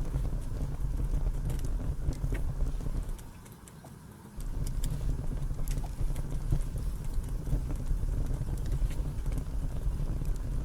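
Wind buffeting the microphone, a steady low rumble that drops away for about a second a little over three seconds in, with faint scattered clicks above it.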